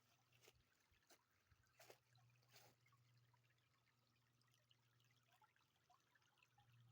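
Faint trickle of a weakly running stream, with a few sharp clicks in the first three seconds.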